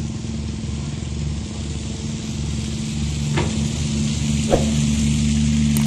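Heavy diesel engine of construction equipment running steadily, with two short knocks about halfway through.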